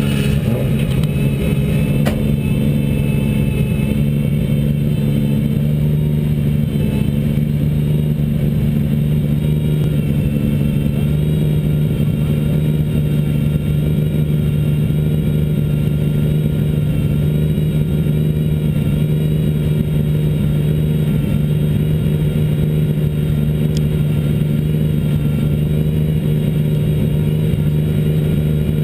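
GT2 race car's engine idling while the car sits stationary: one steady, even note that neither rises nor falls.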